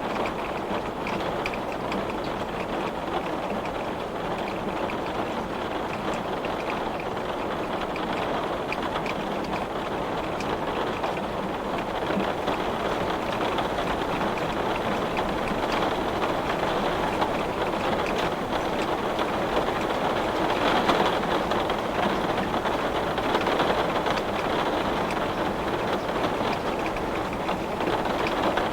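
Heavy rain pattering steadily on window glass, a dense hiss of many close drop ticks.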